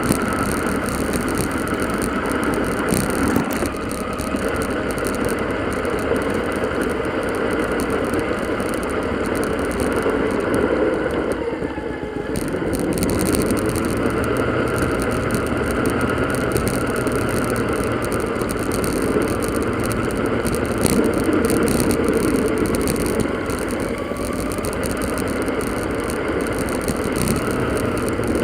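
Steady rush of wind and road noise from riding a bicycle, sped up fourfold so it comes out high and blurred.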